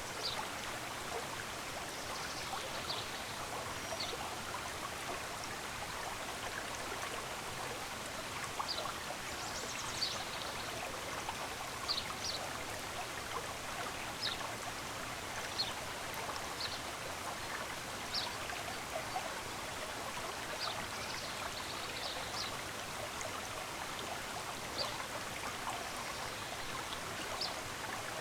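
A stream running steadily, with short high bird chirps every second or two over it.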